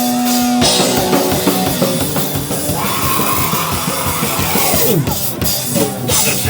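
Live hardcore punk band played loud: a held, steady guitar note gives way about half a second in to the full band, with pounding drums and distorted guitars. Around the middle a pitch slides steeply downward.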